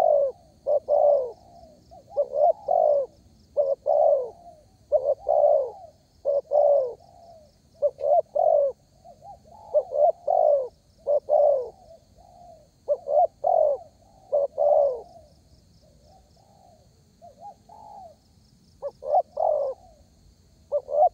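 Spotted dove (derkuku) in full, vigorous song, cooing phrase after phrase at a steady pace. There is a short lull about three-quarters of the way through before the calling picks up again.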